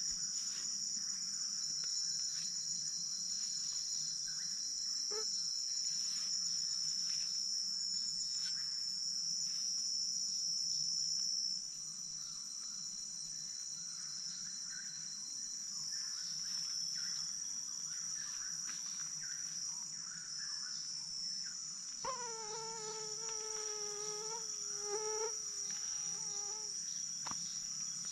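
Steady, high-pitched chorus of crickets and other insects, easing slightly about eleven seconds in. About two-thirds of the way through, a wavering pitched call lasts around three seconds.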